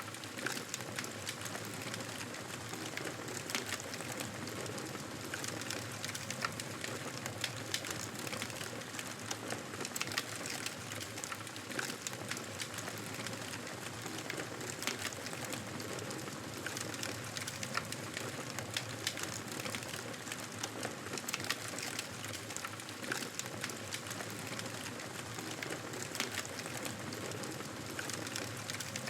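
Wood fire burning in a fireplace: a steady soft hiss of flames with frequent small, irregular crackles and pops.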